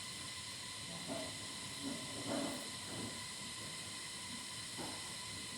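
Steady hiss of background noise with faint steady tones in it, and a few faint brief sounds about one to three seconds in and again near the end.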